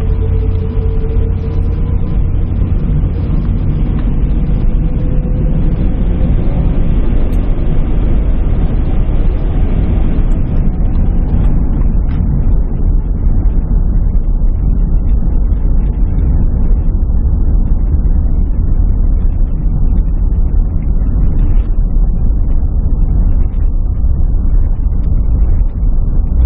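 Airliner cabin on the runway: loud, steady rumble of the jet engines and the roll. About ten seconds in, the higher engine noise falls away, leaving a lower rumble.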